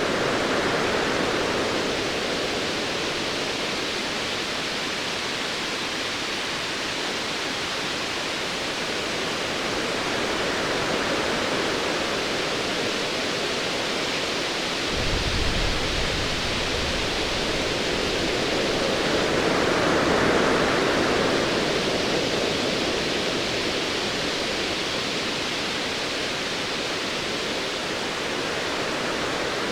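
Ocean waves washing in as a steady hiss that swells twice, with a short low rumble of distant thunder about halfway through.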